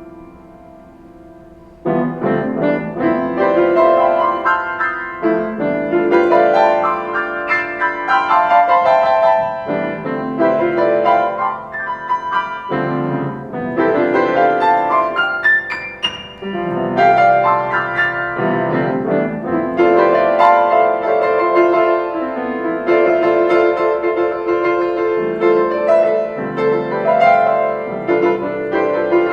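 Solo piano playing slow chords and melody, starting afresh about two seconds in after the last notes die away.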